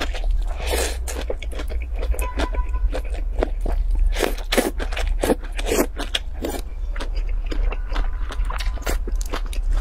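Close-miked mouth sounds of slurping and chewing wide noodles in chili oil: many wet smacks and clicks, with a steady low hum underneath.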